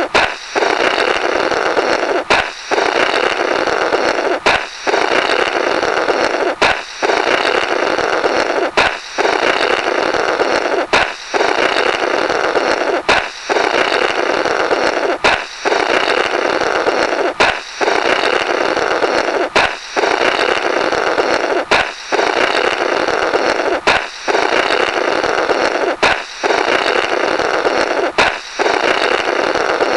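Comic 'Blorrrt' balloon sound effect: a sharp balloon pop, then about two seconds of blowing through the burst balloon's rubber. It repeats as a loop every two seconds or so, about fourteen times.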